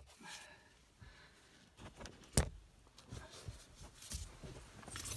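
Quiet handling noises at a car dashboard, with one sharp click about two and a half seconds in; a jingle of keys begins at the very end.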